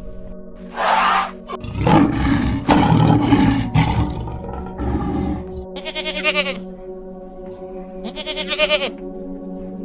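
Animal calls over steady background music. A lion roars and grunts in a loud run of calls in the first half, and two quavering goat bleats come in the second half.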